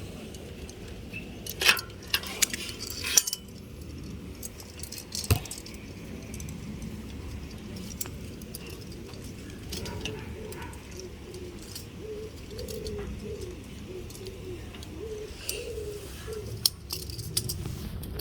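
A few sharp metallic clinks and jangles in the first few seconds, then a bird's low cooing, wavering up and down, through the second half.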